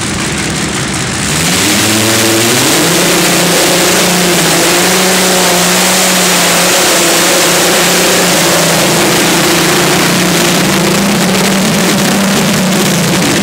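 Competition pulling tractor's engine revving up about two seconds in and then held at full power through a pull, loud and fairly steady, falling away right at the end.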